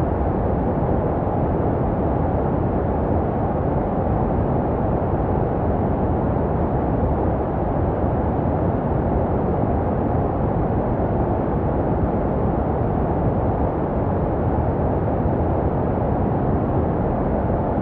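Baby sleep white noise: a steady, unchanging hiss weighted toward the low end, dull and deep with little treble, like a muffled whoosh heard from inside the womb.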